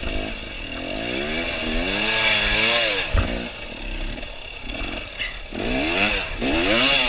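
Dirt bike engine revving up and down over and over, its pitch rising and falling every second or two, as the bike works slowly through slippery ground. A short knock about three seconds in.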